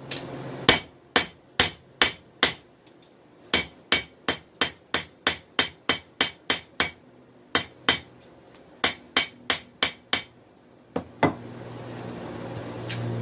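Hand hammer striking hot 416 stainless steel on an anvil, drawing out a knife blank: runs of sharp blows, about three a second, with short pauses between. Near the end the blows stop and a steady low hum comes in and grows louder.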